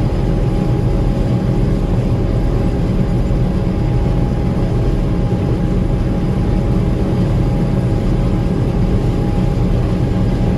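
Gleaner M2 combine running steadily, a constant low rumble with a faint steady whine above it.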